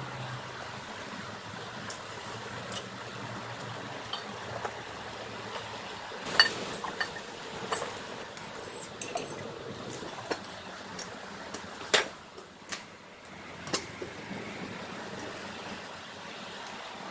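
Firewood crackling in a wood-fired oven converted from an old coal-briquette stove: irregular sharp pops over a steady rushing noise, the loudest about six and twelve seconds in.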